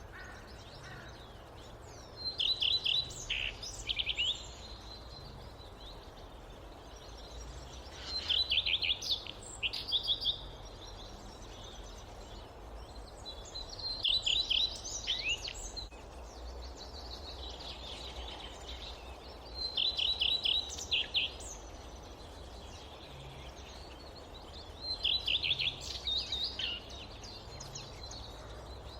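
A songbird singing the same short song over and over, five times about six seconds apart, each a quick run of high notes about two seconds long, over a steady low background noise.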